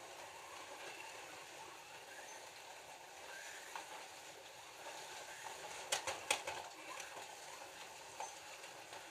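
Scalextric slot cars running on a plastic track, a faint steady whir of their small electric motors and wheels. A few sharp plastic clacks come about six seconds in, and another shortly before the end.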